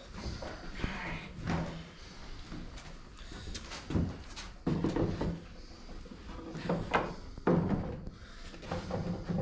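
Beehive parts being handled and fitted together: a string of irregular knocks, taps and clatters as frames and boxes are set in place.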